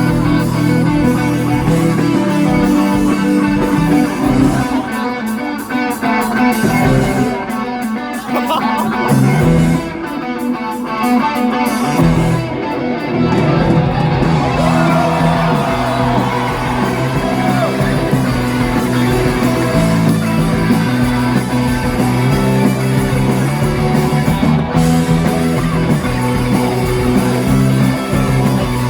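Live rock band playing, with electric guitar to the fore over a steady bass line.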